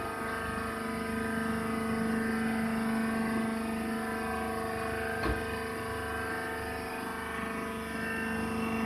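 Rice husk baling machine running, its motor giving a steady hum, with one sharp click about five seconds in.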